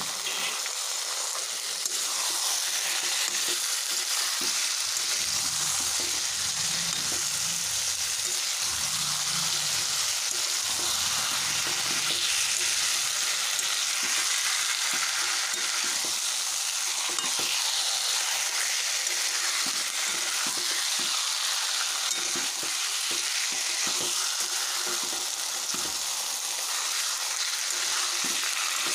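Marinated chicken pieces sizzling steadily in hot mustard oil in a metal kadai, with a spatula scraping and turning them in short strokes.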